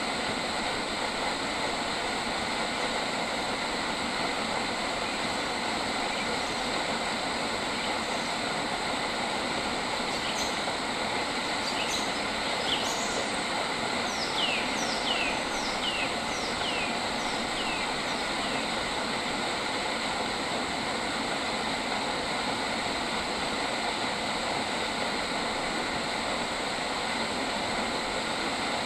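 A bird calls over a steady rushing background noise. It gives a few short sharp calls about ten seconds in, then a quick run of about six descending whistled notes a little later.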